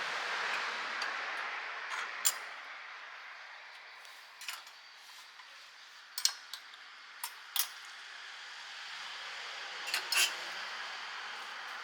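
Sharp metallic clinks, about seven of them and a close pair near the end, as metal cooking utensils knock together over a steady hiss that fades and then swells again.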